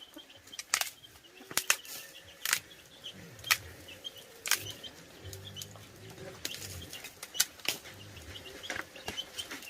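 Irregular sharp clicks and knocks, roughly one a second, over faint high chirping, with a low murmuring sound in the middle.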